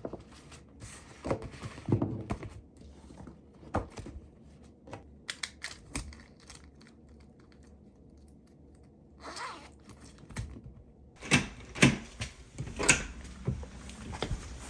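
Irregular clicks and taps of things handled at a desk, like keys or small objects set down. There is a quiet stretch in the middle and a cluster of louder knocks near the end.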